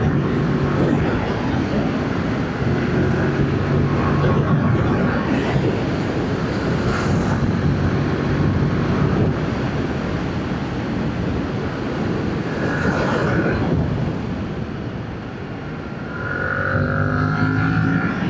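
Yamaha MT-07's stock-exhaust parallel-twin engine running under way, with wind rushing over the microphone. The engine eases off about three quarters of the way through, then climbs in pitch as it accelerates near the end.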